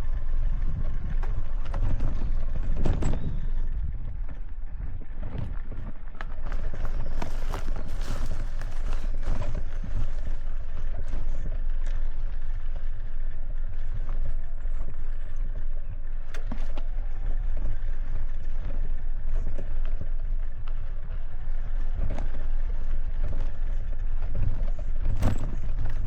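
Aixam D-Truck mini truck driving: a steady low rumble of the running vehicle and road noise, with occasional sharp knocks and rattles.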